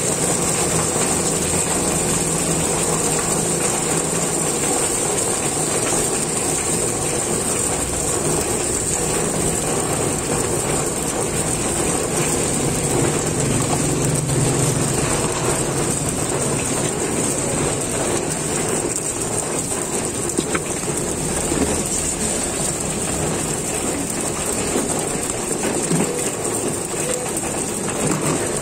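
Steady sizzling hiss of cilor batter frying in the cups of a hot griddle pan, over a low rumble of street traffic.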